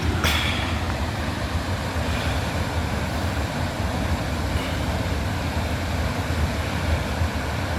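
Waterfall rushing steadily with a deep low rumble under a wide hiss of falling water. A brief crackle sounds just after the start.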